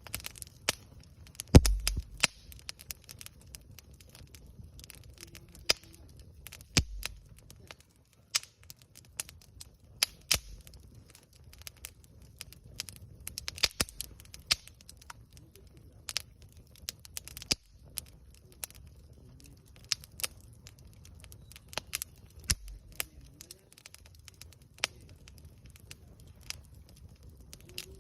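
Wood campfire crackling, with irregular sharp pops throughout; the loudest pop comes about one and a half seconds in.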